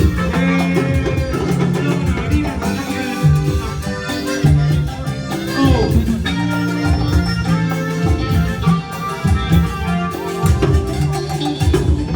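A band playing upbeat Latin dance music, with a bass line and drums keeping a steady beat under pitched instrument lines.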